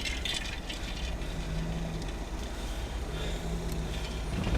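Steady low rumble of a car's engine and road noise heard from inside the cabin while driving slowly, with a faint hum coming in twice.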